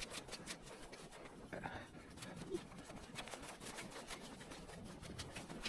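Footsteps crunching in snow: irregular short crunches at walking pace.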